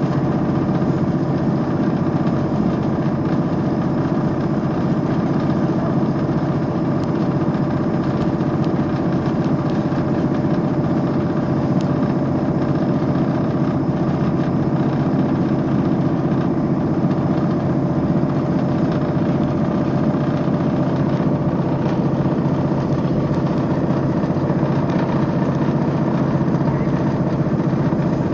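Steady running noise of a diesel train, heard from inside the passenger carriage: an even, unbroken rumble with a faint engine hum.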